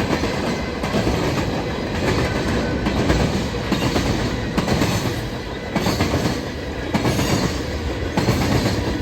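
Freight train cars rolling past close by: a steady rumble of steel wheels on rail with repeated clickety-clack as wheel sets pass over the rail joints.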